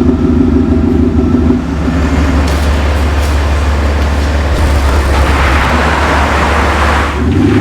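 Audi A6 4G running with an aftermarket active sound exhaust module, giving a steady engine drone. Under two seconds in, the upper tone of the drone drops away and leaves a low hum under a building rush of noise. Near the end the fuller drone returns suddenly.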